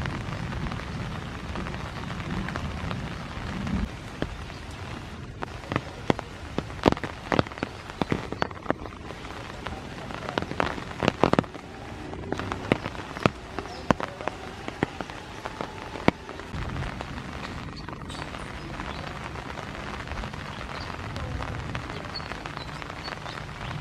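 Rain falling steadily as an even hiss, with many sharp drops and drips striking nearby surfaces through the middle.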